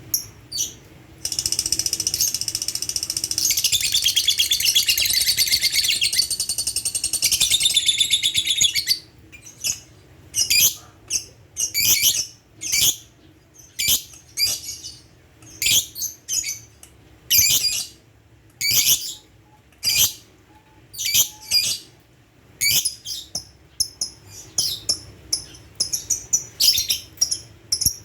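Pet lovebird calling: a continuous high, rapid chatter for about eight seconds, then a long string of short, sharp high chirps, about one or two a second.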